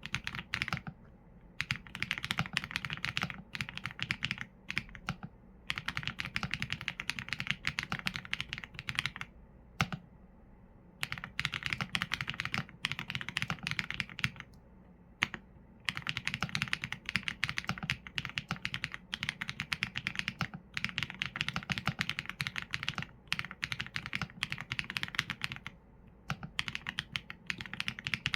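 Mechanical keyboard typing on Leobog Graywood V4 linear switches with PBT keycaps: fast, steady runs of keystrokes, broken by short pauses every few seconds.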